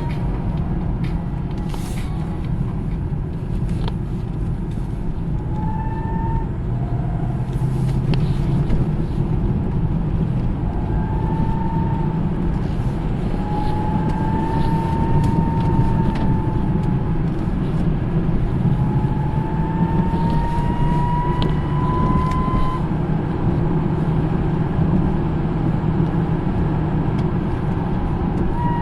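Hyundai ix35 on the move, with steady low road and drivetrain rumble and a thin whistle from the propeller shaft's centre support bearing. The whistle comes and goes several times and rises in pitch during its last, longest stretch.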